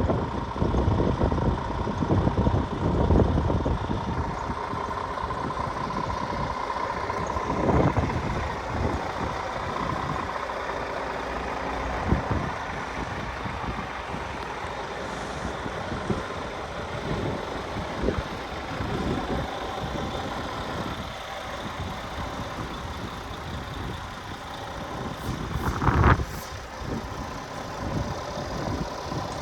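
Scania R450 truck's 13-litre six-cylinder diesel running with a steady low rumble. A steady high tone sounds over it for the first ten seconds or so, and there is one short loud burst about 26 seconds in.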